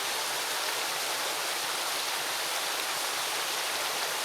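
Steady hiss of rushing or falling water, even and unbroken.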